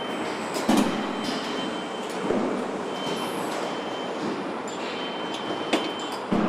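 Car assembly-line machinery running steadily, with a few sharp metallic clanks and an on-and-off high-pitched whine.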